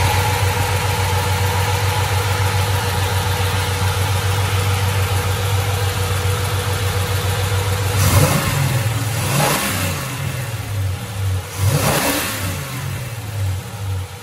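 Chevrolet 396 big-block V8 idling steadily, then revved twice by hand at the carburetor throttle linkage, about eight and about twelve seconds in. Each rev rises in pitch and falls back to idle.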